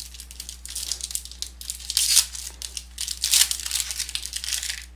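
Trading cards being handled: cards sliding, flicking and rubbing against each other in the hands, giving a run of short papery scrapes and crinkles.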